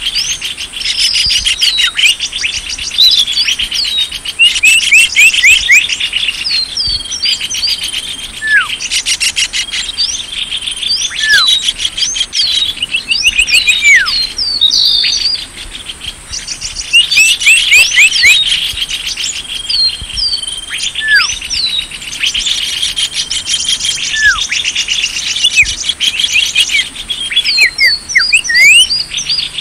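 Small songbirds chirping and trilling densely over one another, with quick up-sweeping notes and now and then a sharp down-slurred whistle, over a fast ticking trill and a steady high buzz. This is a bird-lure (pikat) call recording meant to draw small birds in.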